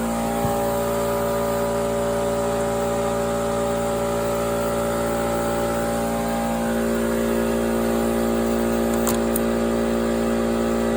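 A motor running steadily with an even, pitched hum over a background hiss; the tone shifts slightly about six and a half seconds in.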